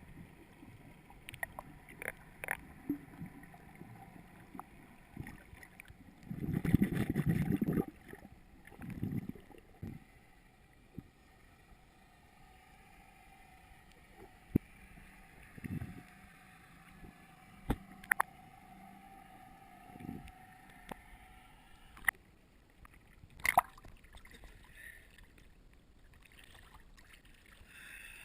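Water sloshing and gurgling against a boat's hull, with scattered sharp knocks and a louder splashing burst about seven seconds in.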